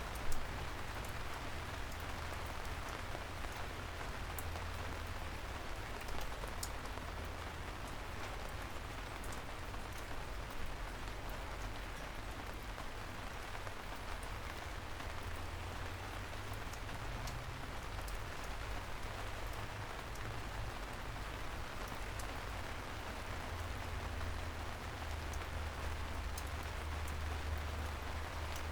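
Steady soft rain falling on city streets: an even hiss of rain with scattered sharp drip ticks and a constant low rumble underneath. One louder drop or tick lands just after the start.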